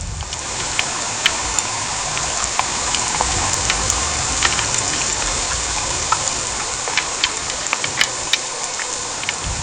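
Heavy rain pouring steadily, with many single drops ticking sharply on a hard surface over the constant hiss.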